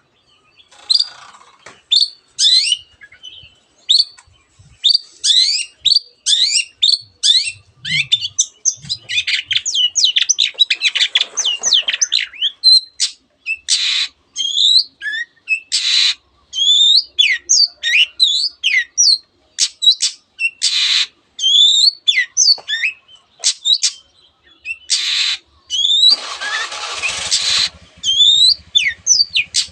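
Long-tailed shrike singing a dense, rapid song of short, sharp sweeping whistled notes, with mimicked canary and other birds' phrases worked in. Several harsh rasping calls break in, the longest lasting about two seconds near the end.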